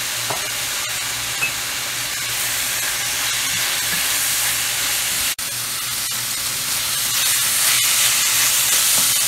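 Beef and kimchi sizzling as they stir-fry in a frying pan, turned with a wooden spoon. The hiss cuts out for an instant just past halfway and grows louder over the last couple of seconds.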